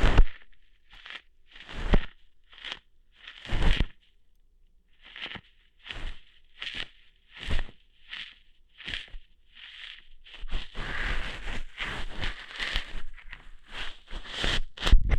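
ASMR ear-hair plucking: a run of short, crunchy tearing strokes, roughly one or two a second. About two-thirds of the way through they run together into denser, continuous scratching.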